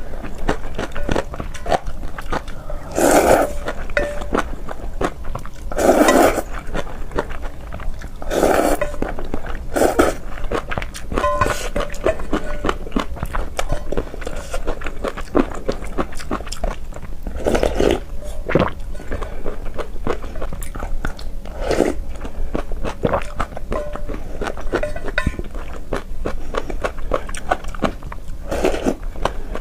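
Close-miked eating: steady chewing full of small wet clicks, with a louder bite every few seconds.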